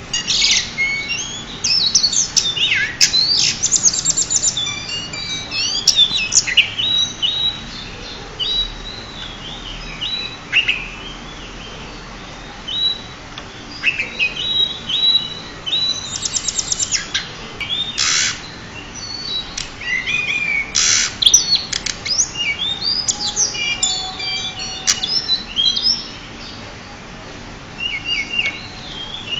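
Pied bushchat (decu) singing: a lively run of quick chirps, whistled up-and-down glides and fast trills, in short phrases with brief pauses between them.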